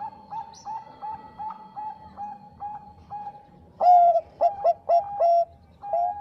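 Zebra dove (Bangkok perkutut) cooing: a run of short, clipped coos about two to three a second, then a louder cluster of coos about four seconds in.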